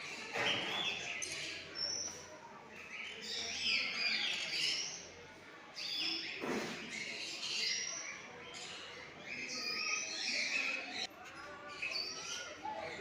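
Many small birds chirping and calling over one another, with indistinct human voices in the background.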